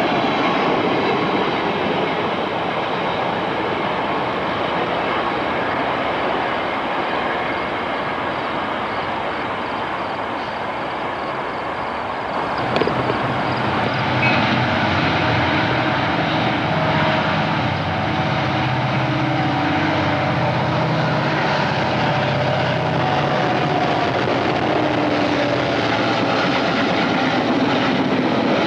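A train passing: a steady rumble and rattle of railroad cars rolling on the track. About halfway through, the sound shifts after a couple of knocks, and a lower, steadier drone comes in.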